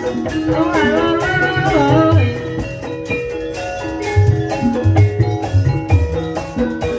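Ebeg accompaniment music in the Banyumasan gamelan style: tuned mallet percussion plays steady notes over recurring low hand-drum strokes. A wavering, bending melody line sounds over it in the first two seconds.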